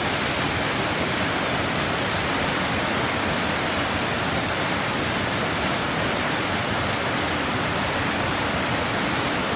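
Waterfall rushing: a steady, loud, even wash of falling water with no let-up.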